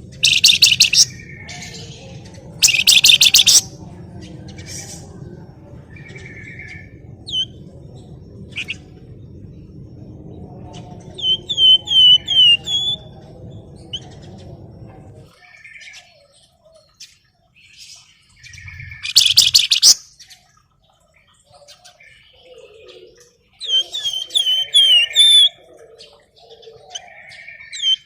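Songbird known to Indonesian bird keepers as the 'flamboyan' singing vigorously. Loud, dense buzzing trills alternate with quick runs of high, downward-sweeping chirps. A steady low rumble lies underneath and stops about halfway through.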